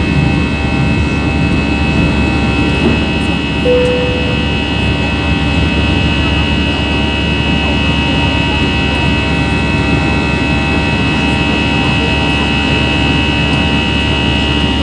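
Airbus A320 jet engines running with a steady whine over a constant rushing noise. A short, faint tone sounds briefly about four seconds in.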